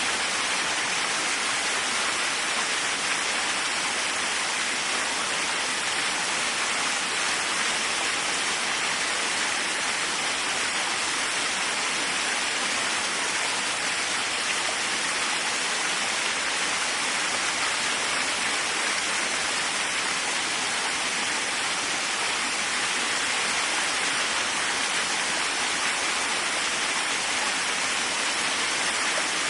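Waterfall: water falling and splashing in a steady, unbroken rush, stronger in the higher pitches than the low.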